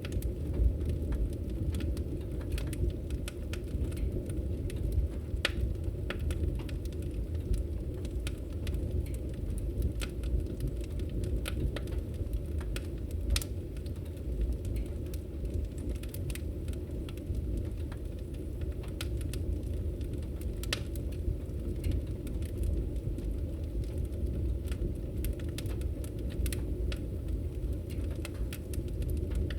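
Logs burning in a fireplace: a steady low rumble of the fire with scattered, irregular sharp crackles and pops.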